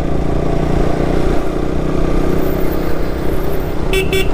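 Motorcycle engine running steadily while riding on the road. Two short horn beeps sound close together near the end.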